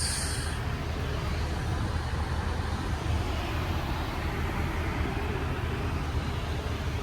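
Steady low rumble of road-vehicle noise, with a short hiss right at the start.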